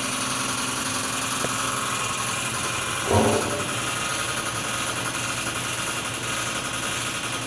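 Motorized honey extractor running steadily, spinning comb frames in its baskets to sling out the honey. There is a brief louder sound about three seconds in.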